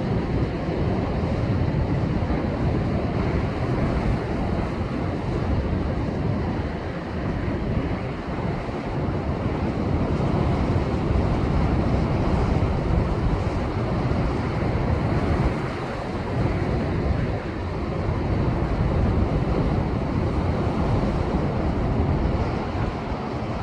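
Rough ocean surf surging against a rocky shore, a steady wash of breaking waves that swells and eases, from the heavy seas left after a typhoon. Wind buffets the microphone throughout.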